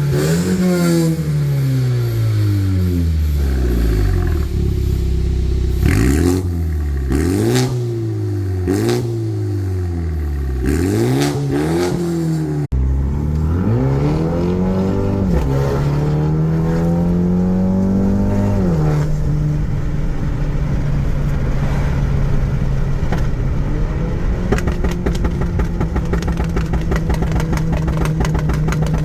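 Mini Cooper GP's four-cylinder engine, with a custom exhaust and modified muffler, being blipped repeatedly, with a few sharp cracks from the exhaust as the revs fall. It then makes one longer rev climb, drops back and settles to a steady run.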